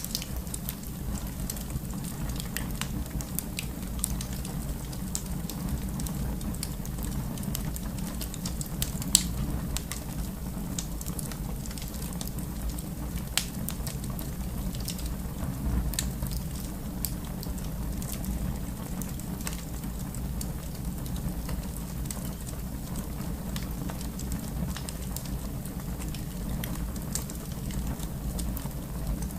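Wood fire crackling in a fireplace: a steady low rumble and hiss with scattered sharp pops, the loudest about nine seconds in.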